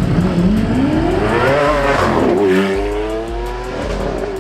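A car engine revving: its pitch climbs for over a second, drops sharply about two seconds in, then climbs again and holds high.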